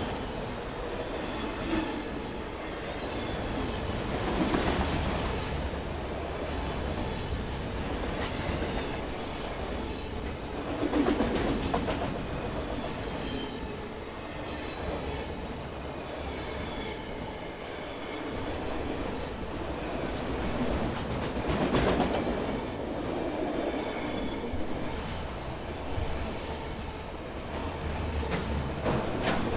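BNSF freight train's cars rolling past, wheels clattering over the rail joints, swelling louder every several seconds. Faint high wheel squeal.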